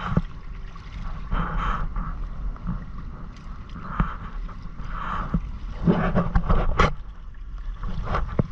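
Water sloshing and splashing irregularly against the hull of a Hobie Island sailing kayak under way, over a steady low wind rumble on the microphone.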